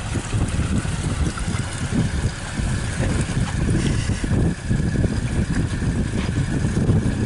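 Wind buffeting the microphone aboard a moving pontoon boat: an uneven, gusty rumble over the steady rush of the boat running through the water.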